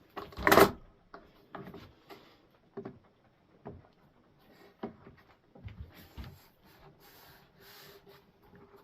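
Wooden boards and parallel clamps being handled for a dry fit: a loud wooden clunk about half a second in, then scattered lighter knocks and clicks, with a stretch of rubbing near the end.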